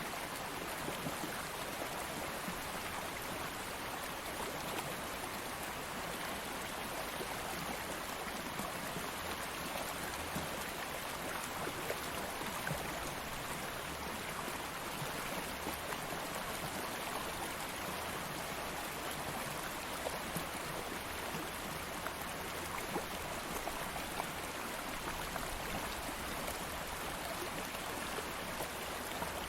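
Stream water flowing steadily, an even rushing with small splashes and trickles throughout.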